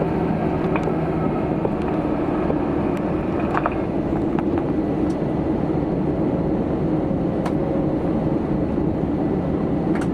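Steady cabin rumble of an Airbus A320 after landing, its jet engines at idle as it taxis. A few faint clicks are heard over it.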